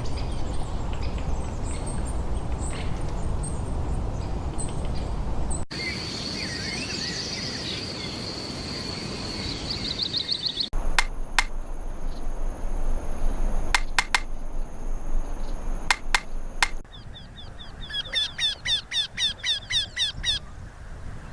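Small birds chirping and calling over a low rumbling noise, the sound changing abruptly a few times. Near the end one bird gives a fast run of repeated falling high notes, about four or five a second.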